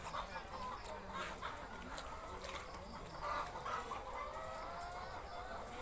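Domestic fowl clucking in short, repeated calls over a steady outdoor background.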